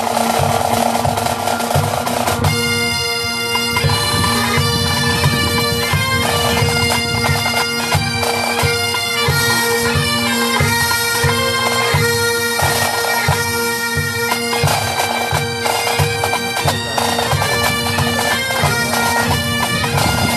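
Pipe band playing: bagpipe drones strike up at once, the chanters come in with a marching tune about two seconds in, over a steady drum beat.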